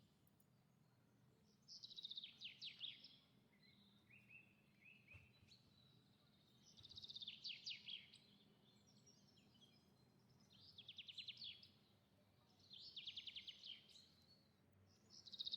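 A small songbird singing short, fast trilled phrases of quick falling notes, about six phrases repeated every two to three seconds over a faint background hum.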